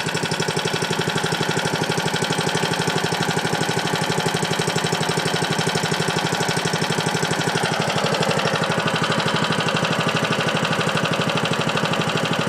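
Suzuki four-stroke engine on a Toro lawn mower idling steadily, with an even, rapid pulse and no change in speed.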